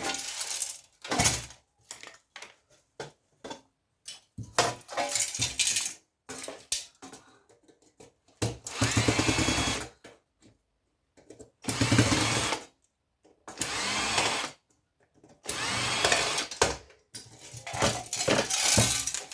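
Power drill-driver backing out screws in repeated bursts of about a second each, its motor whine rising and falling, with short clicks and clatter of parts between bursts.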